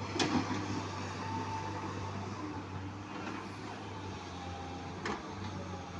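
Heavy diesel engine running steadily at a low, even note, with a sharp knock just after the start and another about five seconds in.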